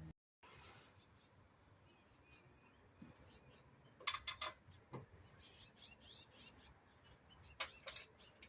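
Faint bird chirps, with a few sharp clicks or taps in quick clusters around the middle and again near the end.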